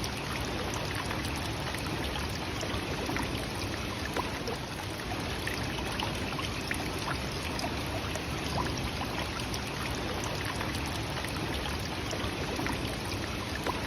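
Nachi Falls, a tall waterfall, pouring steadily: an even, unbroken noise of falling water.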